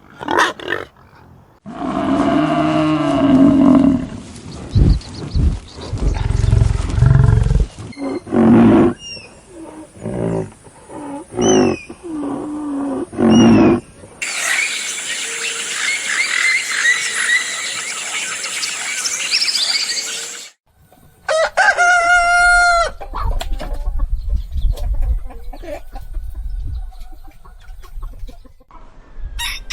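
A run of farm animal calls from several short clips, with pitched calls and a rooster crowing about three quarters of the way in.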